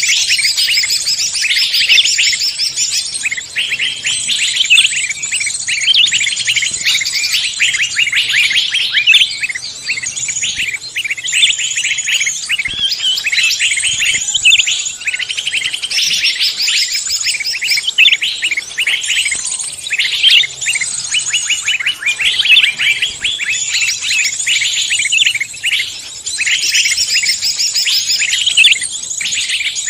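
A dense chorus of songbirds chirping and singing over one another, a steady stream of rapid high-pitched notes with no pause.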